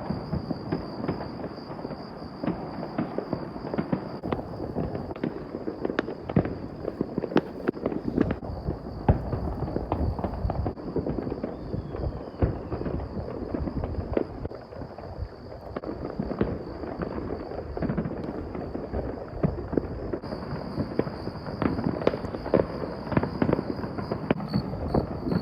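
Many fireworks and firecrackers going off at once and without a break: a dense, continuous crackle of pops and bangs over a low rumble.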